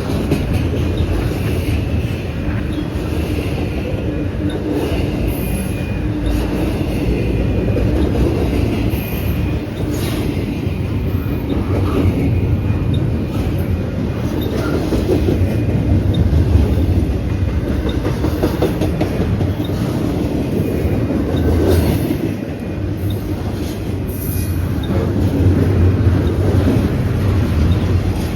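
Steady heavy rumble with scattered clattering knocks and faint high squeals, from a large vehicle in motion.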